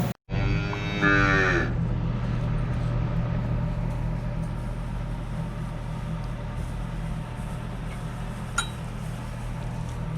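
A calf moos once, a drawn-out call of about a second and a half just after the start, over a steady low hum. A faint click comes near the end.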